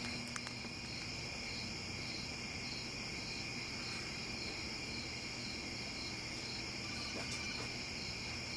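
Microwave oven running with a faint low hum, under a steady, high, evenly pulsing chirping of crickets.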